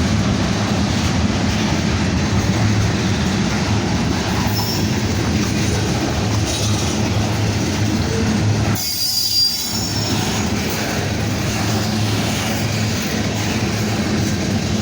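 Loaded freight cars rolling past close by: a steady rumble and clatter of steel wheels on rail, with a brief high wheel squeal about nine seconds in.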